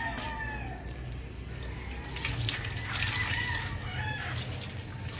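Water running and splashing, starting about two seconds in, with chickens and roosters crowing faintly in the background.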